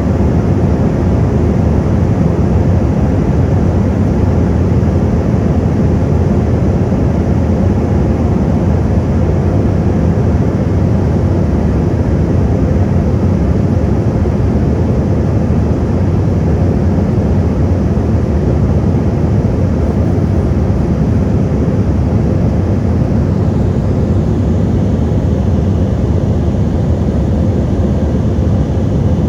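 Steady low rumble of an airliner in flight, its engine and airflow noise heard from inside the passenger cabin on approach to landing.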